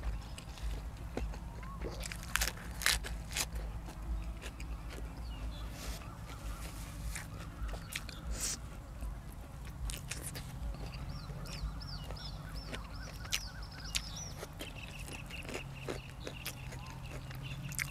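Mukbang eating sounds: chewing and crunching of khanom jeen noodles, chicken and raw vegetables, with sharp irregular crunches and mouth clicks. A run of short high chirps comes partway through, over a steady low hum.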